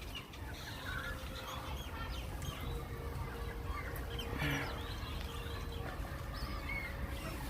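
Backyard chickens and ducks calling: scattered short clucks and squawks over a steady low rumble.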